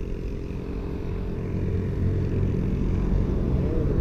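Volkswagen up! TSI's turbocharged 1.0-litre three-cylinder engine running, heard from inside the cabin as a low hum that slowly grows louder. The engine is misfiring, which an OBD scanner traces to the third cylinder.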